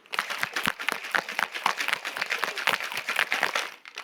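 Large chunks of ice rattling and knocking hard inside a cocktail shaker being shaken vigorously, a fast, continuous clatter that breaks the ice down and dilutes the drink. The shaking stops abruptly just before the end.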